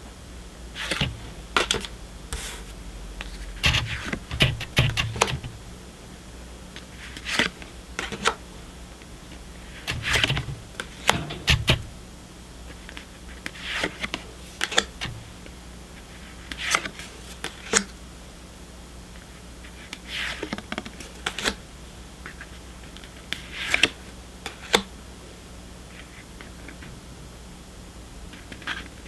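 Pokémon trading cards being handled and slid one over another while a pack is looked through: short bursts of card clicks and rustles every second or two, with pauses between.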